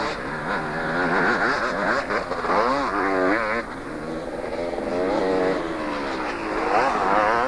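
Two-stroke motocross motorcycles racing, their engines revving up and down in pitch as they go through the gears, several at once.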